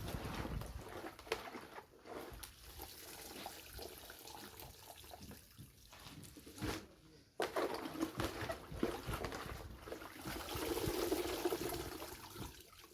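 Water being poured and splashing in a container. It gets louder just past the halfway point.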